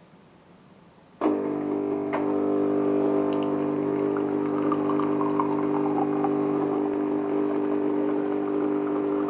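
De'Longhi ESAM1000SJ espresso machine starting with a sharp click about a second in, then running with a steady droning hum; a second click follows a second later.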